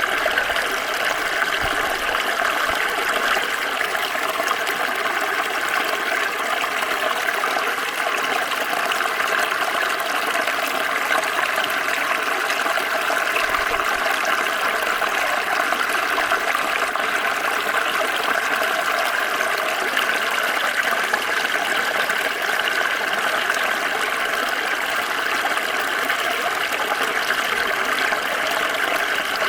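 Small stream flowing steadily, water running and trickling over stones in a continuous rushing noise.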